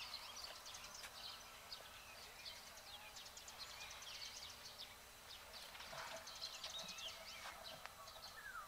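Birds chirping: many short, high calls overlap in a faint, continuous chorus, with a few notes sliding downward.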